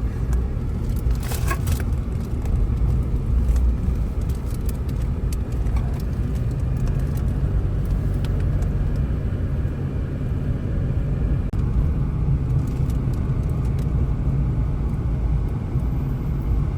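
Car driving along, heard from inside: a steady low rumble of engine and road noise.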